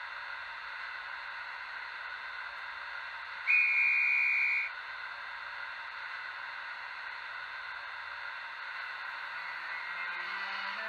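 Sound decoder of an N-scale Fleischmann BR 182 Taurus model playing through its small speaker: a steady hiss of the standing locomotive, a conductor's departure whistle blown once for about a second, then near the end the traction inverter starting to sing its rising stepped scale as the locomotive pulls away.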